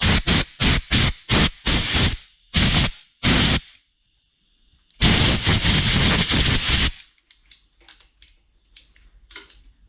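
Blow gun of a compressed-air line fired in a quick series of short blasts and then in one longer blast of about two seconds, blowing metal filings off a magnet. A few faint clicks follow.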